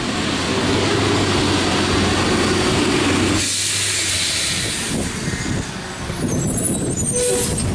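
Garbage truck engine running with a steady low drone, then a long hiss of air about three and a half seconds in as the drone drops away, followed by rumbling.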